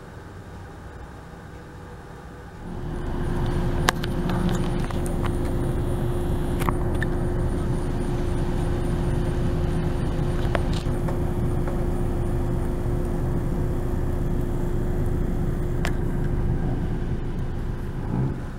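A few seconds of quiet room tone, then a car's engine starts running steadily at idle, a low rumble with a steady hum and a few faint clicks, fading out near the end.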